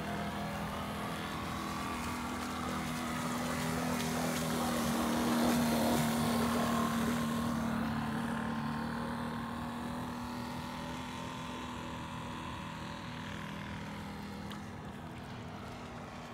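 Enya four-stroke glow engine of a radio-controlled model boat running at a steady speed, growing louder to a peak about five or six seconds in as the boat comes closest, then slowly fading as it moves away.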